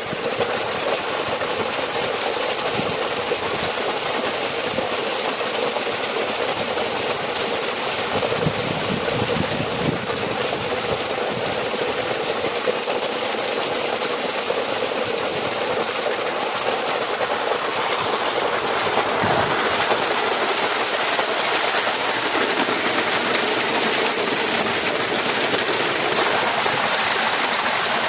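Steady rush of flowing water, loud and unbroken, with a few faint knocks.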